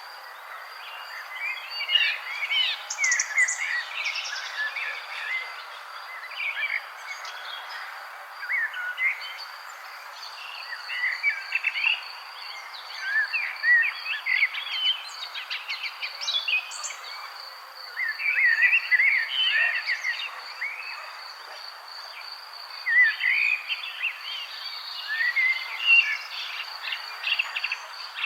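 Small songbirds chirping and twittering in irregular bursts, over a steady, rapid high-pitched insect trill, like a cricket's, that runs throughout.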